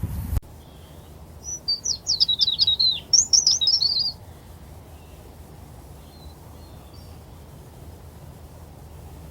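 A small songbird singing two quick runs of high, rapid chirps about a second and a half in, then falling quiet, over a steady low background hum.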